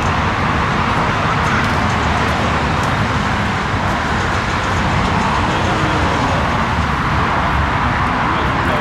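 Jet engine noise from an Airbus A340-300's turbofans: a loud, steady rush that holds level throughout.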